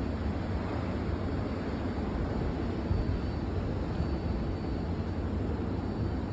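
Blizzard wind blowing hard, a steady low rushing noise with small gusty swells.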